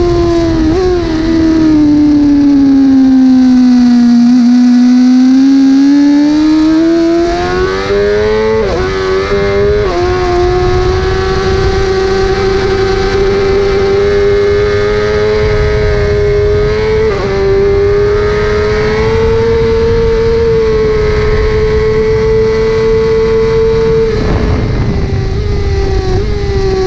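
Onboard sound of a 1000 cc racing superbike's engine at high revs. The pitch falls as it slows for a corner, then climbs under hard acceleration, with quick upshifts about nine seconds in and again around seventeen seconds. It then holds a steady high note down a straight, with wind noise rumbling underneath.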